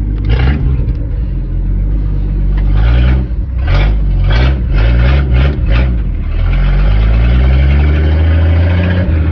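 Old carbureted truck engine running under way, its pitch rising and falling with the revs and climbing to a higher steady rev near the end. A quick run of short noisy bursts comes about three to six seconds in.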